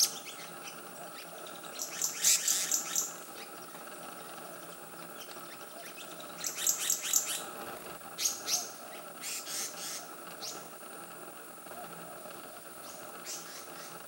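Black-naped monarch calling: bursts of quick, sharp, high chirps, the loudest clusters about two seconds in and around seven seconds in, with a few softer chirps later, over a steady faint background hum.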